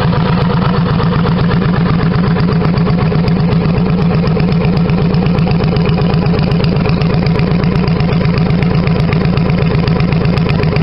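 Honda Shadow 750 V-twin running steadily at idle through aftermarket One Way Customs exhaust pipes, an even, loud, pulsing exhaust note.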